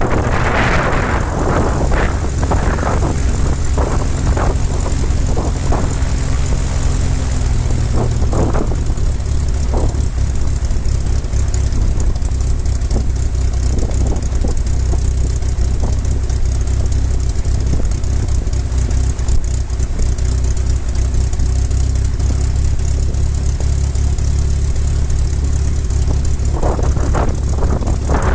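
Light aircraft's piston engine running steadily at low power, with brief rushes of noise near the start, about eight seconds in, and near the end.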